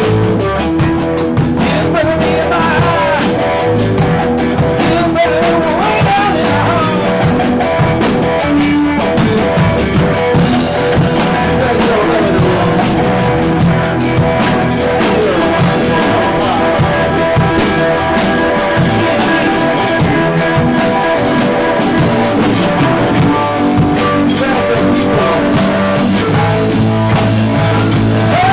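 Live band playing a blues-rock song: guitar lines bending in pitch over a drum kit and bass.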